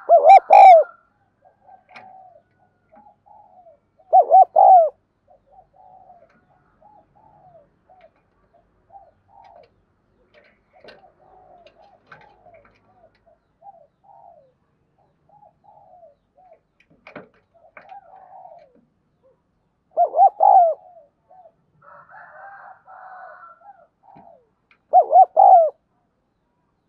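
Spotted doves cooing: a near dove gives four loud, short coo phrases, near the start, about four seconds in, about twenty seconds in and near the end, while fainter doves keep cooing in between.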